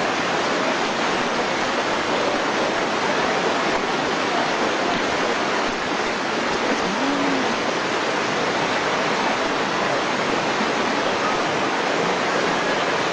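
Fast-flowing floodwater rushing in a steady, unbroken wash.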